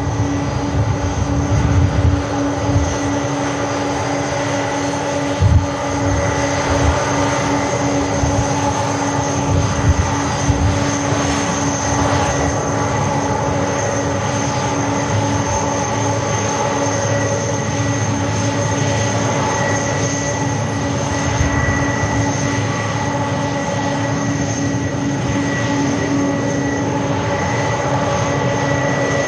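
Boeing 747 freighter's jet engines running, a steady roar with several high whining tones held throughout.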